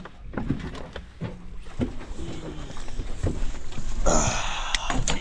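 Scattered knocks, bumps and rustling of people clambering into the open back of a Jeep, with a short burst of hiss about four seconds in.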